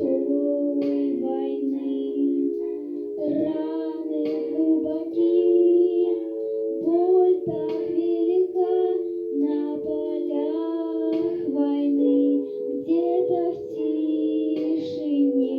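A song: a high voice singing a melody over steady, held accompaniment chords.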